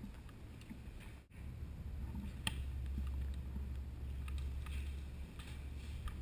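Low rumble on the microphone, growing stronger just over a second in after a brief dropout, with scattered faint clicks and one sharper click about two and a half seconds in.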